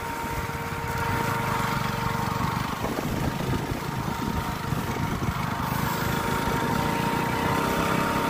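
Motorcycle engine running steadily under load while climbing a hill, with wind rushing over the microphone.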